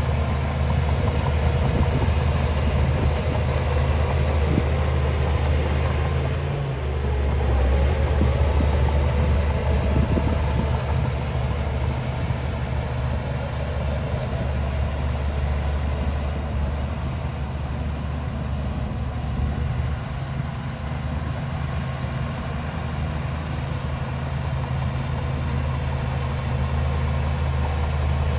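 Heavy diesel engine of earth-moving machinery running steadily with a low hum. The hum drops deeper and grows a little louder about six and a half seconds in, then eases back a few seconds later.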